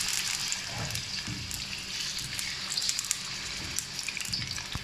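Raw chicken pieces sizzling in hot oil in a steel karahi: a steady frying hiss with scattered small pops and crackles.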